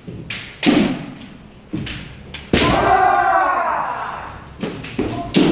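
Kendo sparring: sharp strikes and thumps from bamboo shinai and stamping footwork, about six in all. A long, drawn-out kiai shout rises and falls in the middle.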